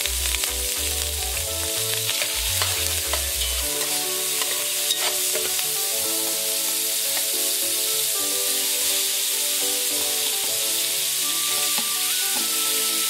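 Raw shrimp sizzling steadily as they fry in hot oil in a pot.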